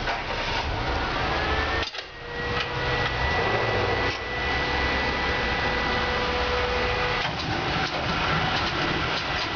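Ceccato Ginga W 240 car wash machine running: a steady rushing noise over a low motor hum, with a steady whine that starts about two seconds in.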